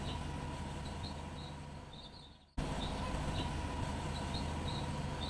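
Mitsubishi bulldozer's diesel engine running steadily, with a few small high chirps over it; the sound fades away about two seconds in and cuts back in suddenly at full level.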